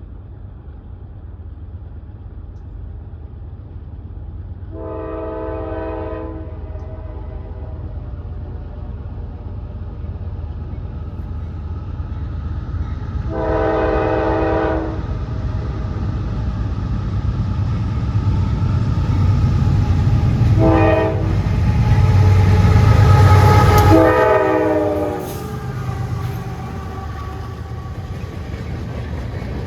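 Lead diesel locomotive of a CSX freight train sounding its horn in the long, long, short, long grade-crossing pattern as it approaches. Its engine rumble grows louder and drops off about 24 seconds in as the locomotive passes, with the train running on after it.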